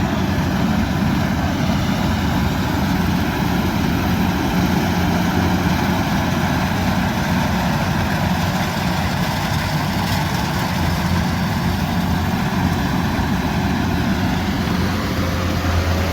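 Combine harvester's diesel engine running steadily, a constant low drone.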